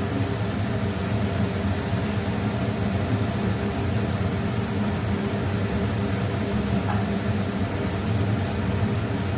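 Steady whirring hum with an even hiss, unchanging throughout.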